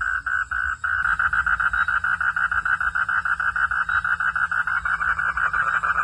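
Frogs calling in a fast pulsing rhythm, the calls coming quicker, about eight a second, from about a second in.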